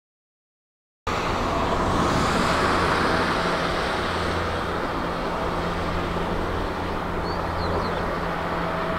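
Steady jet engine noise from a Boeing 777 airliner, a continuous rushing sound with a low hum underneath, starting abruptly about a second in.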